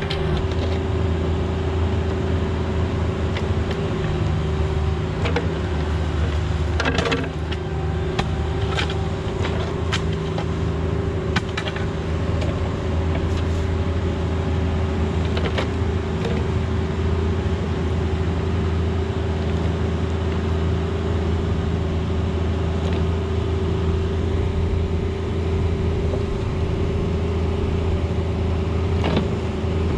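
Mini excavator's diesel engine running steadily under load while digging, with a few sharp knocks scattered through.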